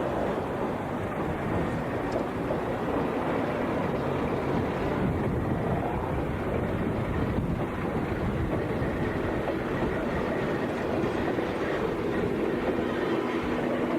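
Meitetsu Inuyama Line electric train running past, a continuous steady noise of wheels on rail, with a faint steady hum joining near the end.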